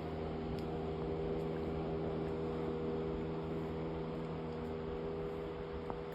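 A steady low mechanical hum with several fixed tones over faint hiss, with one small click near the end.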